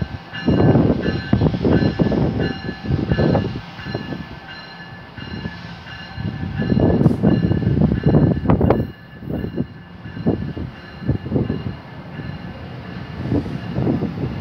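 NJ Transit bi-level commuter train pulling out of the station, its cars rolling past, with a steady high electric whine. Irregular gusts of wind rumble on the microphone over it.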